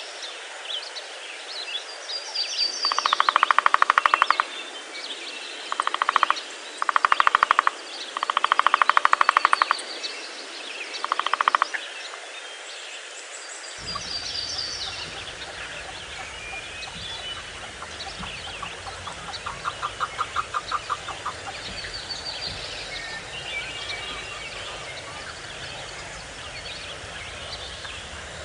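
Loud, rapid rattling animal calls in about five bursts over the first twelve seconds, with a fainter run of them around twenty seconds in. Small birds chirp high above them throughout, and a low rumble of background noise comes in suddenly about fourteen seconds in.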